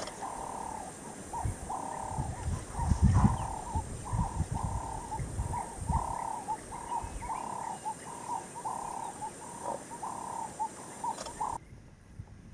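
A bird calling a long series of low cooing notes, roughly two a second, some drawn out and some clipped short. A low rumble swells under the calls, loudest about three seconds in. Everything cuts off suddenly near the end.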